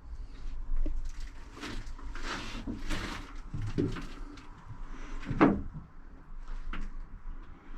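Scattered knocks, scrapes and rustling of someone moving about and handling things in a cramped boat compartment, with the loudest knock about five and a half seconds in.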